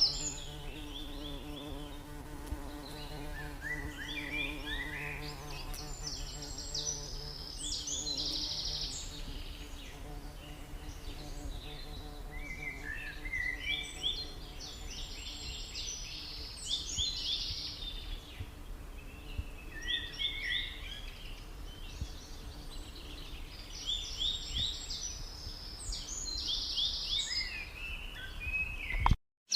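A small songbird singing, with about five phrases of rapid high chirps and trills a few seconds apart. A low steady drone, like an insect buzzing, is heard under the first part and fades out about a third of the way in.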